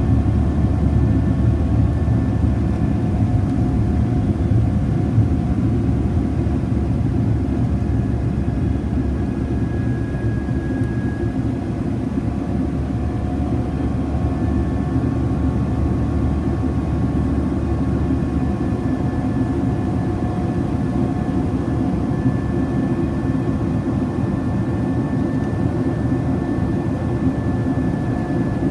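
Cabin noise of a Ryanair Boeing 737-800 climbing after take-off: the steady rumble of the jet engines and airflow, with a faint engine whine over it. The level eases slightly about ten seconds in.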